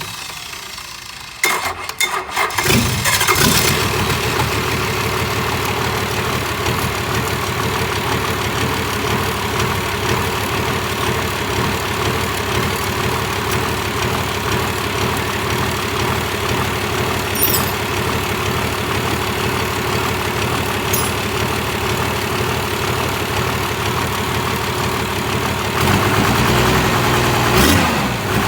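Toyota 13Z diesel engine cranked by the starter, catching about three seconds in and then idling steadily. Near the end the engine is revved up and back down.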